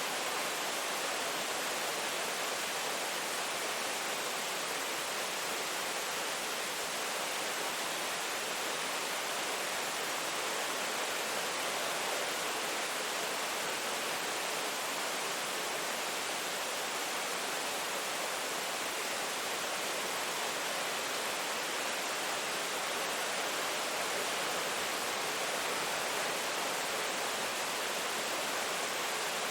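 Steady heavy rain, an even continuous hiss with no separate drops or thunder standing out.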